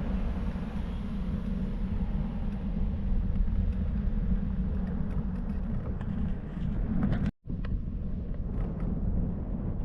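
Steady rumble and wind noise of a vehicle moving along a road, heard on board. The sound cuts out completely for a split second about seven seconds in.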